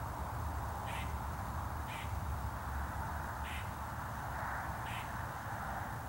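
A bird calling outdoors: four short, harsh calls spaced about a second or more apart, over a steady background rush and low rumble.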